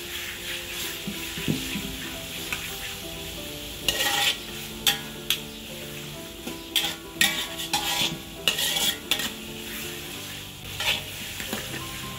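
Pork pieces sizzling in hot oil and chili paste in a metal wok, stirred with a metal ladle that scrapes and clinks against the pan. The scraping grows frequent from about four seconds in.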